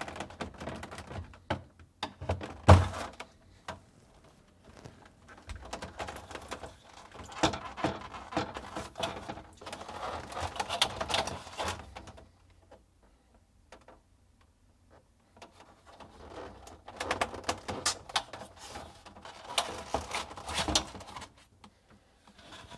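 Plastic clicking, scraping and snapping as a flat-blade screwdriver pries the locking tabs of a Whirlpool refrigerator's plastic air tower panel free. There is a sharp knock about three seconds in and a short pause about halfway through.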